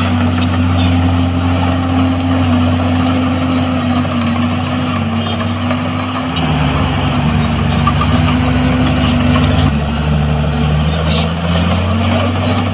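Diesel engine of heavy earthmoving machinery running steadily. Its pitch drops about six seconds in and comes back up near the end.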